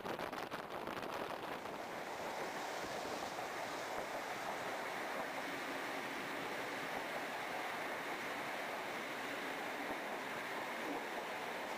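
Steady rush of wind and wheel-on-rail running noise from a moving diesel train, heard at a carriage window, with a few sharp clicks in the first second before it evens out.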